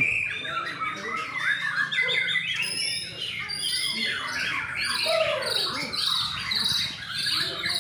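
White-rumped shamas (murai batu) singing, several at once, in fast, varied phrases of whistles and chirps that overlap one another.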